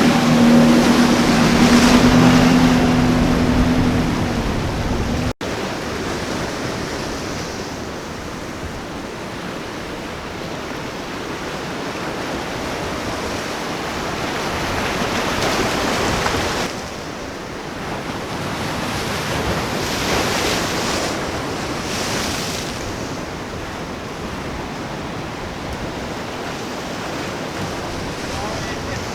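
A boat engine running for the first few seconds, then cut off abruptly; after that, waves breaking and surf washing, with wind on the microphone, swelling louder a couple of times.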